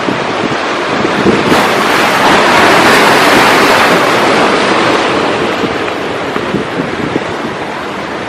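Ocean surf: a wave swells up about a second and a half in, peaks, then slowly washes back out, with wind rumbling on the microphone.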